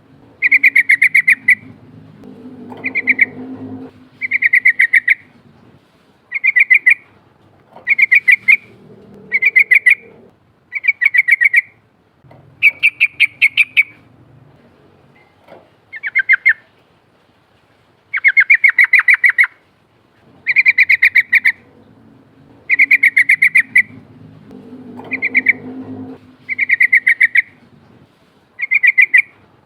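Yellow-vented bulbul (trucukan) singing: short, loud, bubbling phrases of rapid notes repeated about every second and a half. There is a longer pause about halfway through.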